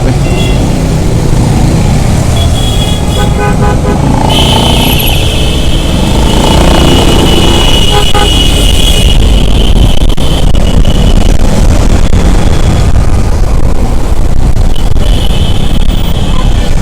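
City road traffic heard from a moving motorcycle: a steady low rumble of engines and road noise, with vehicle horns honking. There are short toots about three seconds in, one long horn blast from about four to nine seconds, and another horn near the end.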